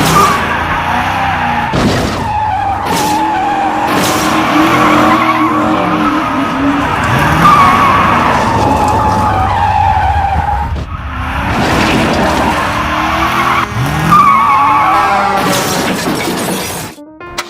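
Car-chase sound effects: engines revving up and down with tires squealing and skidding, broken by several sharp crashes or impacts. Near the end the sound cuts off abruptly.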